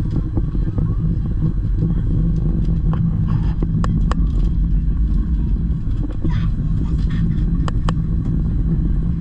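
Gornergrat Bahn electric rack railway train running, with a steady low rumble and hum and scattered sharp clicks and knocks.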